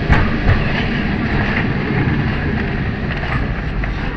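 Tram 28 streetcar running along its rails: a steady rumble and rattle, with a couple of sharp knocks in the first half second.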